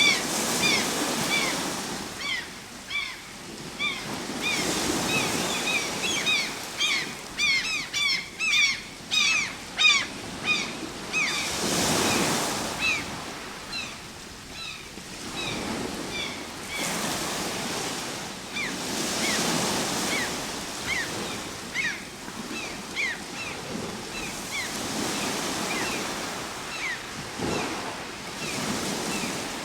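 Ocean surf, with waves breaking and washing in, swelling and ebbing every few seconds. Over it a bird repeats short, quick, downward-sweeping calls, most rapid in the first third and sparser later.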